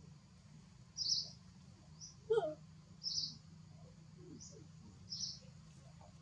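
Birds chirping in short high notes, five or six times about a second apart, with one lower short call about two seconds in, over a steady low hum.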